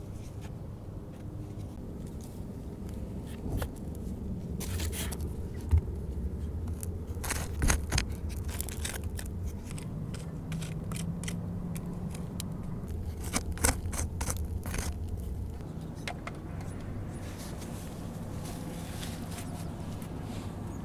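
Irregular scraping and rustling from hand work, with a few sharp knocks, the loudest about a third of the way in and again past halfway.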